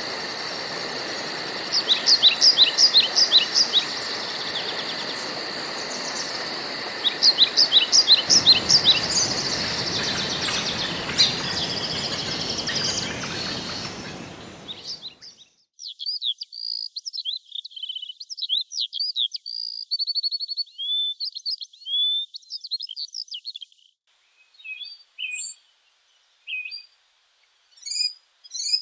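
Woodland birdsong over a steady insect trill and background hiss, with a bird repeating short, quick phrases twice. About halfway through, the backdrop cuts off abruptly and a bird sings a varied song of quick whistled notes, thinning to scattered chirps near the end.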